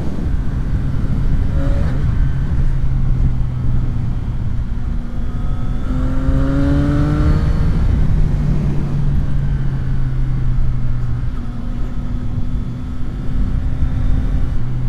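CFMOTO 675 SR-R's 675 cc inline-three engine running under way at fairly steady revs, with a brief rise in pitch about six to seven seconds in.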